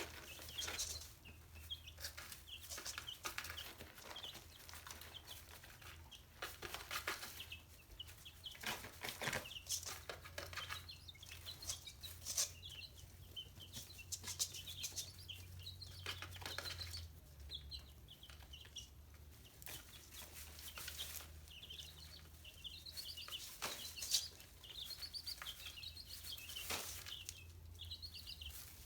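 Chickens clucking with short, high peeping chirps, over frequent sharp clicks and scuffles, as the flock goes after live mealworms.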